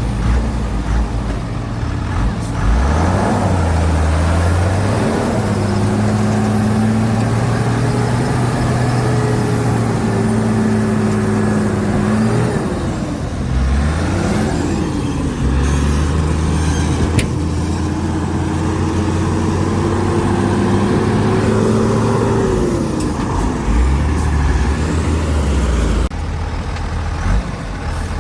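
Heavy diesel engine of a Shantui DH17C2 bulldozer working. It holds steady high revs for long stretches, with its pitch dropping and climbing back a couple of times and falling away near the end.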